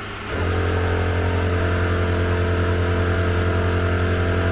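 Air compressor motor running steadily with a low, even hum. It steps up in level about a third of a second in, then holds.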